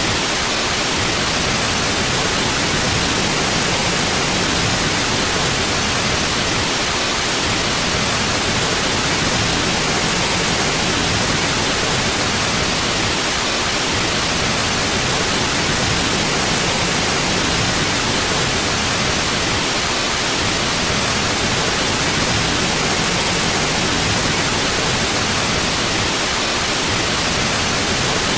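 Steady, unchanging white noise: an even hiss with no tones or events, cut off above about 10 kHz.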